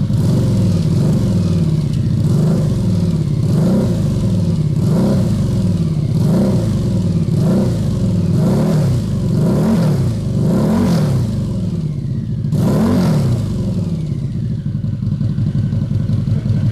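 Harley-Davidson Night Rod–based trike's V-twin running through a Vance & Hines muffler, blipped repeatedly with about nine quick revs, each rising and falling back, then settling to idle for the last few seconds.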